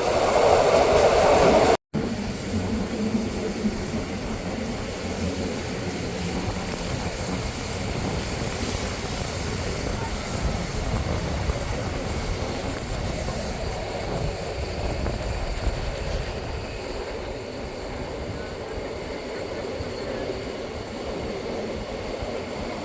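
Bernina Railway train running, a steady rumble of wheels on the rails. It is louder for the first two seconds, then cuts out completely for an instant before the running resumes.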